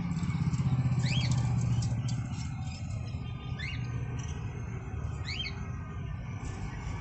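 Budgie chicks calling: three short rising chirps, spaced about two seconds apart, over a louder low steady rumble of vehicle traffic.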